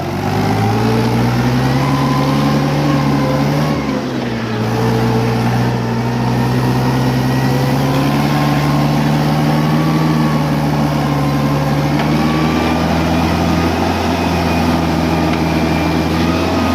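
Mahindra 575 DI tractor's four-cylinder diesel engine running hard under load, pulling a loaded trolley through mud. It revs up at the start, dips briefly about four seconds in, then climbs and holds at high revs.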